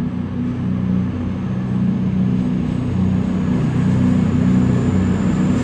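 CrossCountry Voyager diesel train's underfloor engines running under power as it pulls away, a steady low engine note that grows gradually louder.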